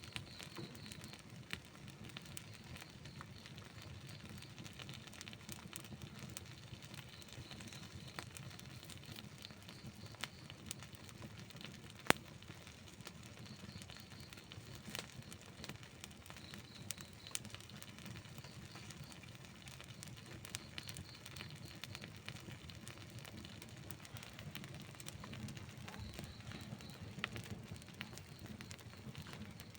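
Wood burning in an outdoor campfire, crackling and popping irregularly over a steady low rumble of the flames, with one sharp, loud pop about twelve seconds in.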